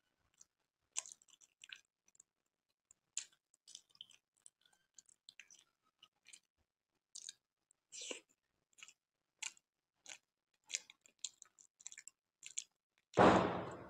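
Close-miked mouth sounds of chewing soft gulab jamun: scattered short smacks and clicks, with one much louder burst about a second before the end.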